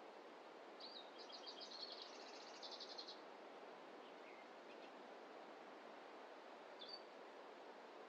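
A small songbird sings one short phrase of rapid high notes that quicken into a trill about a second in, then gives a single short high call near the end, over a faint steady forest hiss.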